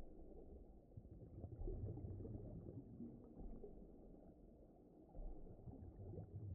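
Faint, low rumbling water ambience with slow swells, an underwater ocean soundscape.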